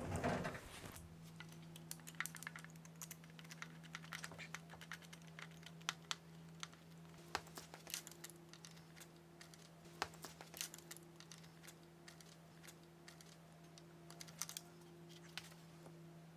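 Faint, irregular light clicks and taps of small parts being handled, over a steady low hum.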